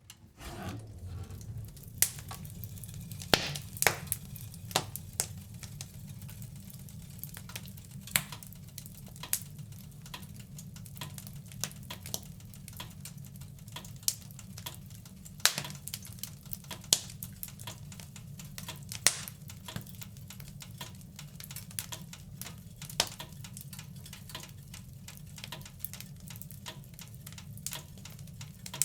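Wood fire in a fireplace crackling: irregular sharp pops and snaps, some much louder than others, over a steady low rumble of the flames. It comes in just after the start.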